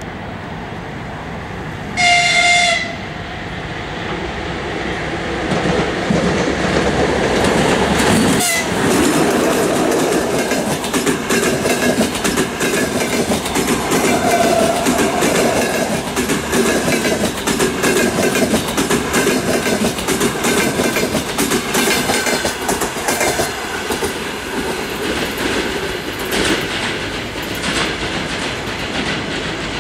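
EP2K electric locomotive sounds a single short horn blast about two seconds in. It then passes at speed with its double-decker passenger coaches, the wheels clattering rhythmically over the rail joints.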